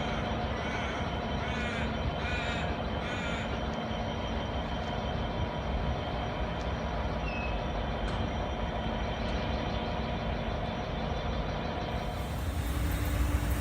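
Steady low rumble of an idling diesel train with a few fixed engine tones. A bird calls four times in the first few seconds. Near the end the rumble grows louder and brighter as a train draws near.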